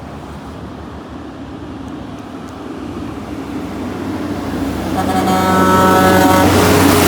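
A truck on the highway approaching with its engine running, growing louder, then sounding its horn with a steady chord for about two seconds as it passes, about five seconds in.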